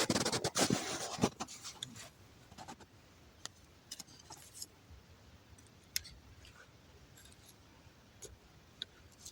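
Dry twigs and kindling being handled and snapped while a winter campfire is being built: a burst of crunching and snapping in the first second or so, then scattered small snaps and clicks.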